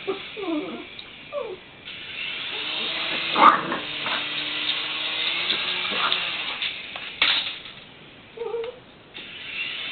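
Chihuahua whining and yapping in short cries that slide up and down in pitch, in the first second or so and again near the end. In between, a toy RC helicopter's small electric motor and rotor whir steadily.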